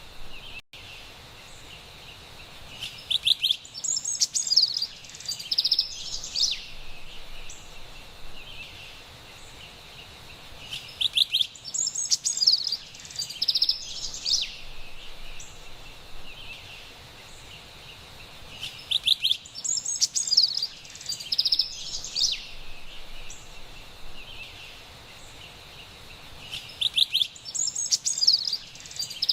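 Carolina wren songs: a burst of rapid rolled notes followed by higher chirping phrases, repeated four times about every eight seconds over a steady high hiss of forest ambience.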